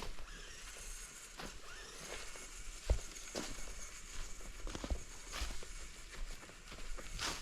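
Irregular crunching and rustling of leaves and twigs on a forest floor, with a sharper knock about three seconds in.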